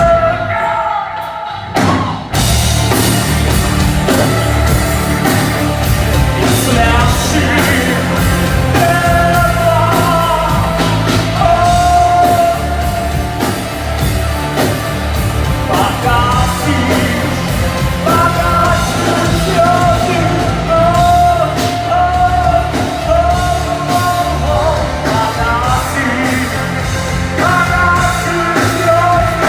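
Live rock band playing, with a singer holding long notes over guitars and drums. The band drops back briefly about a second in, then comes back in full.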